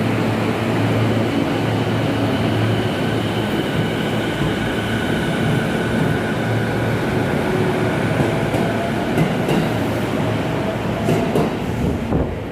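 Chuo Line electric train running alongside the platform close by: a steady rumble of wheels and running gear with a faint whine held through it. A few sharp clicks come late on, and it grows quieter at the very end.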